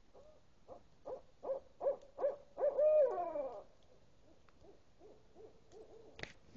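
Owl hooting: a run of about seven short hoots that come faster and louder, ending in one longer hoot that slides down in pitch. Fainter hoots follow, and a sharp click sounds near the end.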